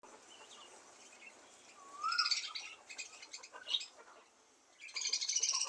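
Budgerigar chattering: two bursts of fast chirps and warbles, about two seconds in and again near the end, each with a short rising-then-falling whistle.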